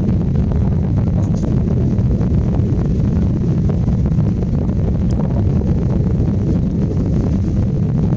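Wind buffeting the camera microphone: a steady, loud low rumble with no pitch to it.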